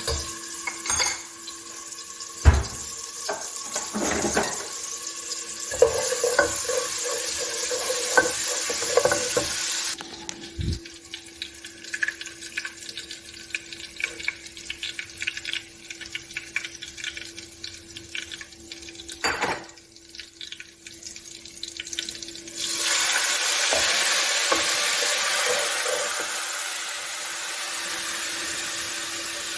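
Chicken kababs frying in oil in a pan: a sizzle with knocks and clinks of a utensil against the pan. The sizzle drops away for a while in the middle, then comes back louder and steady about three quarters of the way through.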